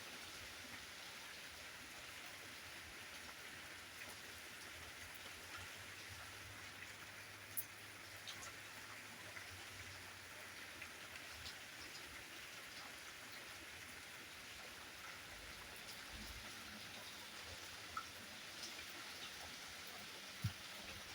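Steady rain falling, an even hiss with scattered drops ticking on a surface and a few louder single drops now and then.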